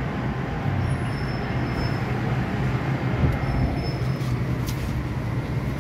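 MTR M-Train electric multiple unit rolling to a stop at an underground platform, heard inside the car: a steady rumble with a low hum and a couple of faint, brief high squeals.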